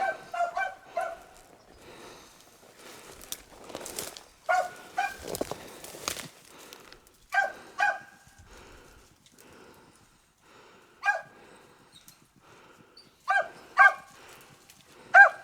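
Beagles baying on a rabbit's scent trail: short bursts of one to three pitched barks, coming again and again with pauses of a few seconds between.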